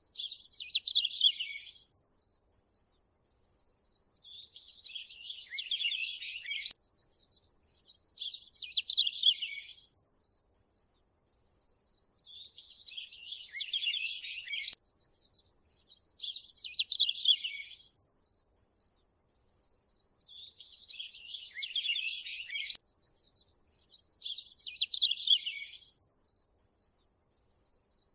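Nature ambience: a songbird singing short phrases about every four seconds, alternating brief and longer ones, over a steady high-pitched insect hiss.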